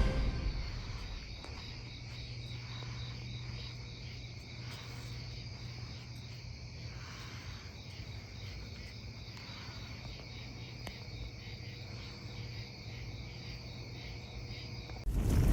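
Crickets chirping in a steady, even rhythm of about three chirps a second over a steady low hum. A loud boom cuts in near the end.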